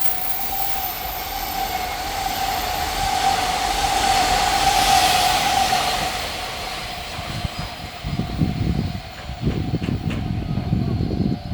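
A freight train passing close by: a steady high whine and rushing noise build as the electric locomotive goes past. From about eight seconds in, the wagons follow with a rhythmic clickety-clack of wheels over the rail joints.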